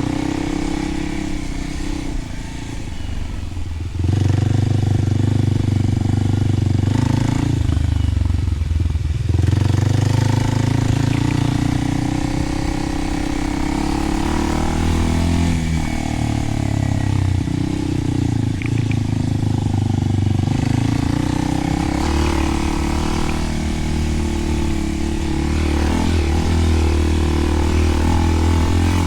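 Kawasaki KLX300's single-cylinder four-stroke engine running through a Delkevic 10-inch oval slip-on exhaust, its note rising and falling with the throttle. It eases off and comes back on harder about four seconds in and again about nine seconds in.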